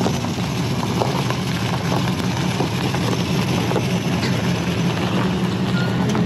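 Toyota Sequoia's engine idling steadily, a low even hum.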